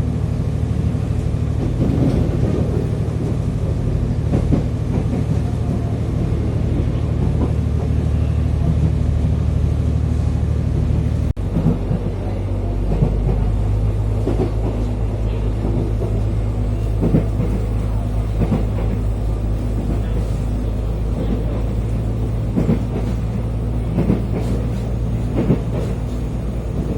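Airport commuter train running at speed, heard from inside the carriage: a steady low rumble and hum with scattered light knocks. The hum changes abruptly about eleven seconds in.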